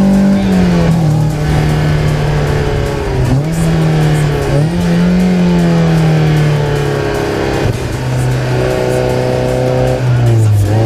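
Toyota MR2 SW20's naturally aspirated four-cylinder engine through a decatted stainless Mongoose exhaust. The revs are held high at first and drop about half a second in, waver up and down, then sink slowly and step down again near the end.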